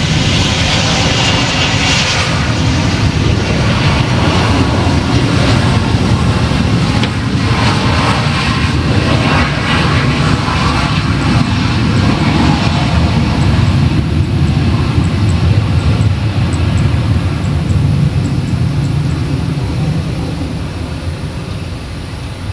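Jet airliner's engines running loud and steady close by, easing slowly over the last few seconds.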